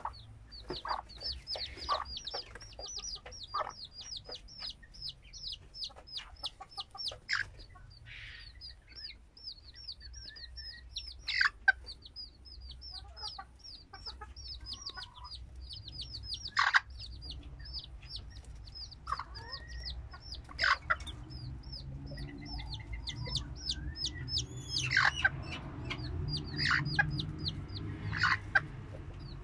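Chicks peeping: a continuous run of short, high-pitched peeps, several a second, with a few louder calls breaking in now and then.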